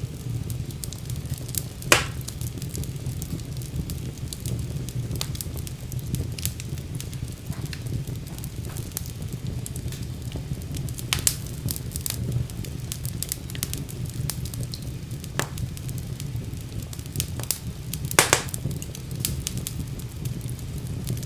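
Wood fire burning in a fireplace: a steady low rumble of flames with scattered sharp crackles and pops, the loudest pops about two seconds in and near the end.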